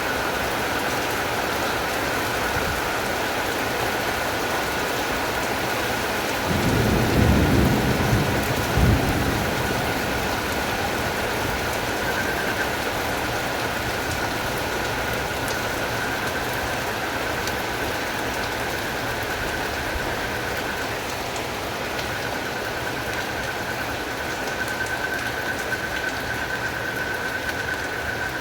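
Steady rain falling, with a continuous high-pitched night chorus of frogs and crickets running under it. About seven seconds in, a low rumble of thunder swells for two to three seconds, peaking twice.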